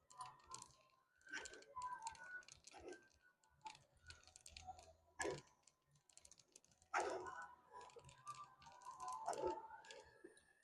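Faint, scattered clicks and knocks at irregular intervals, with quiet gaps between them.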